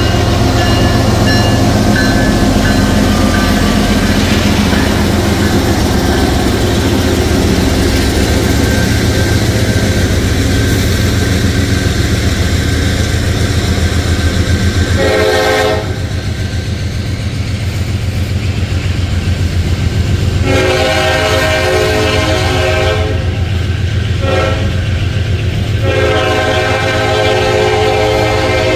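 Norfolk Southern manifest freight train passing close by: a locomotive's rumble gives way to freight cars rolling past with wheels clacking over the rail joints. From about halfway, a train horn sounds further off in several separate blasts, the longest near the end.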